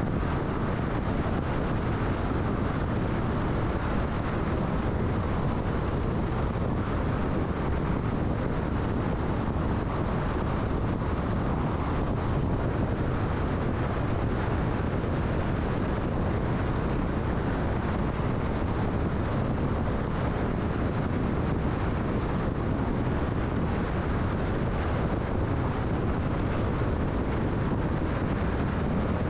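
Steady tyre, road and wind noise of a car cruising on the freeway, an even rush with no changes.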